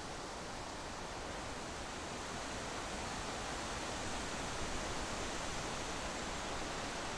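Steady rushing road and wind noise from a moving vehicle, with no distinct events.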